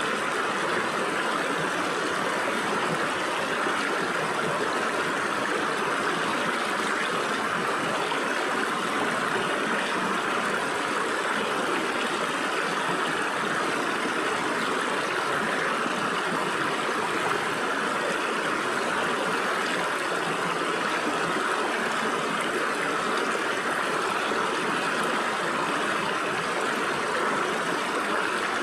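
Stream water flowing and splashing through gaps between rocks: a steady, unbroken rush.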